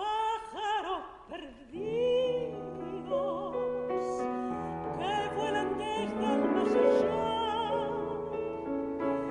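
A classical mezzo-soprano voice with wide vibrato for the first second or so, then piano chords and held notes carrying on.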